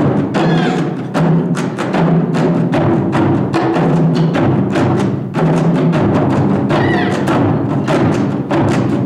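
Japanese taiko drums playing a fast, driving ensemble rhythm of dense, regular strokes over a deep low boom. A few short high whistle-like glides sound about half a second in and again near seven seconds.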